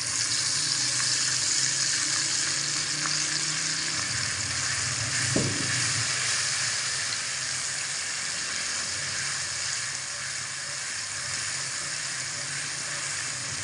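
Tomato paste sizzling as it hits hot oil and ginger-garlic paste in a stainless steel karahi, stirred with a spatula. There is a single knock about five seconds in, and the sizzle eases a little near the end.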